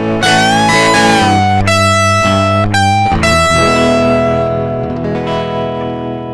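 Electric guitar playing a closing run of chords with bent notes, then one last chord held and left ringing as it fades.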